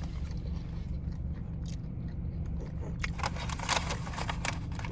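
A steady low rumble, with a run of crackling and rustling clicks starting about three seconds in.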